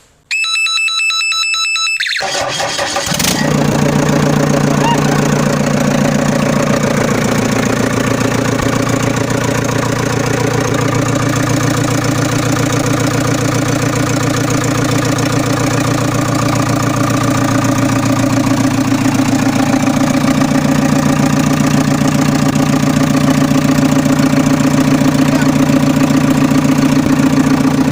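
A high electronic-sounding tone for about two seconds, then an engine starting about two to three seconds in and running steadily at one speed.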